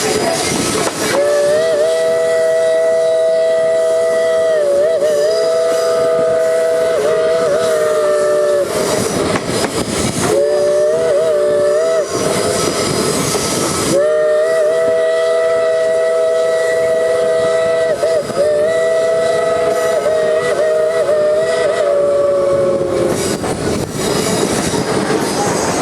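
Steam locomotive #734's B&O three-chime whistle sounding a chord in three blasts, long, short, long, its pitch wavering as the whistle is worked, over the rumble and clickety-clack of the moving train.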